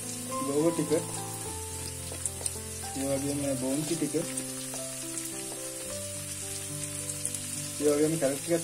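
Hot oil sizzling in a wok as shredded cabbage and sliced green beans are tipped in, under background music of held notes.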